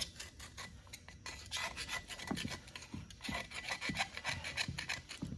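Quick, repeated rasping strokes of something being scraped or rubbed against the engine's metal where grease has built up.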